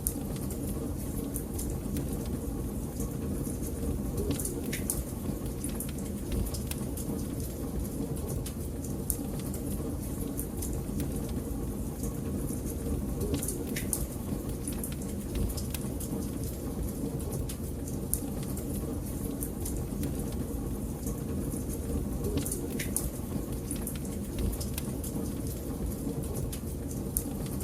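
Wood fire crackling in a fireplace: a steady low rumble of flames with scattered sharp pops.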